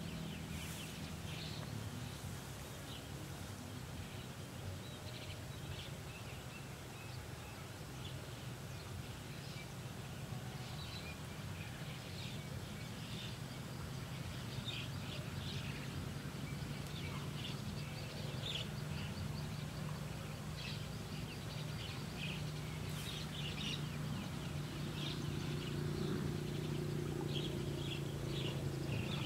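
Many short bird chirps, on and off throughout, over a steady low hum that grows slightly louder near the end.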